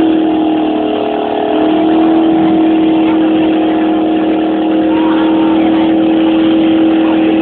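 Car engine held at high revs through a burnout, rear tyres spinning in place and smoking. The engine note holds steady, sags briefly about a second in, then climbs back and holds.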